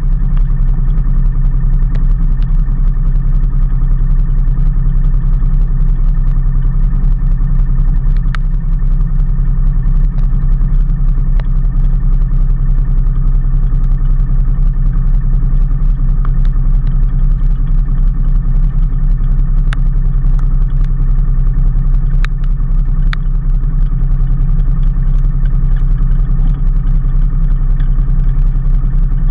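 Steady drone of a vehicle under way, engine and road noise running evenly with no change in speed, broken by a few scattered sharp ticks.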